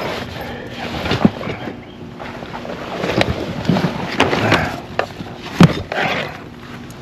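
Hand tools working on metal under a car's hood: irregular scraping and rustling with several sharp metal clanks, the loudest a little over halfway through.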